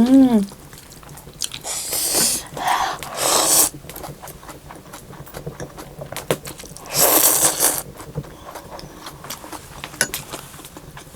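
A person eating hot thukpa noodle soup close to the microphone: three loud, breathy mouth sounds, two about two seconds in and one about seven seconds in, with quieter chewing clicks in between.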